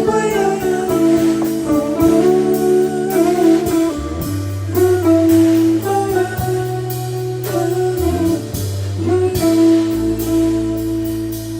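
Jazz guitar playing a melody of sustained notes with pitch bends, over bass and drums with regular cymbal strokes.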